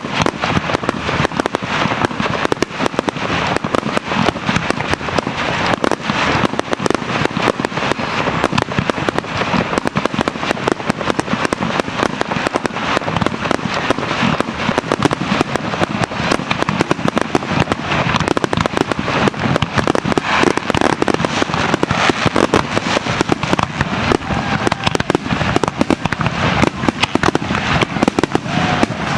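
Aerial fireworks going off in a dense, unbroken barrage: many sharp bursts and crackles a second, layered over one another.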